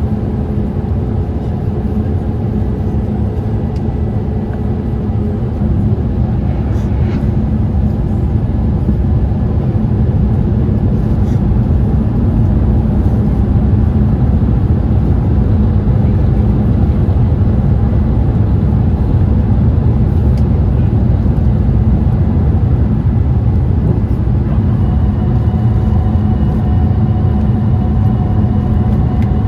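Steady, loud rumble of a Boeing 787-8 heard from inside the passenger cabin: engine and airflow noise. It gets slightly louder about six seconds in, and faint steady whine tones come and go.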